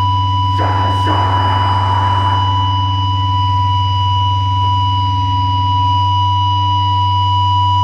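Steady electronic drone from the stage amplification, a held high tone over a low hum, with a short burst of noise in the first couple of seconds.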